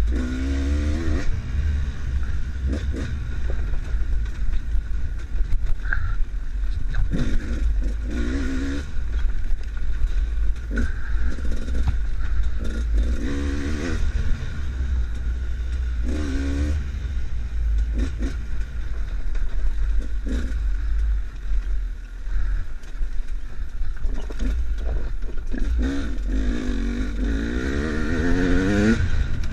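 Enduro motorcycle being ridden off-road, its engine revving up in short bursts every few seconds and climbing for longer near the end. Underneath is a heavy low rumble, with scattered knocks and rattles.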